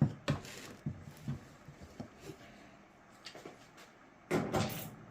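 A dryer's top-panel screws being taken out by hand: a series of separate light clicks and knocks, then a louder rustling scrape near the end.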